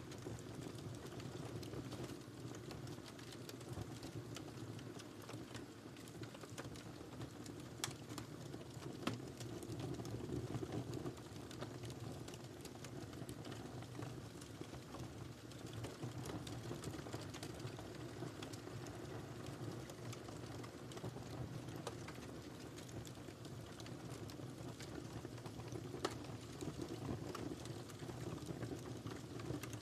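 Wood fire burning in a fireplace: a steady low rumble of flames with frequent scattered crackles and pops, a few sharper snaps standing out.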